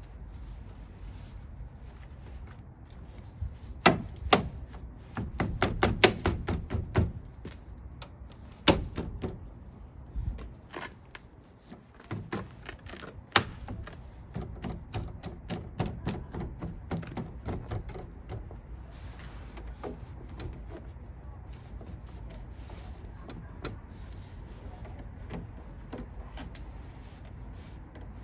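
Workshop hand work on metal parts: irregular sharp clicks and knocks, in quick runs about four seconds in and again from about twelve seconds, over a steady low hum.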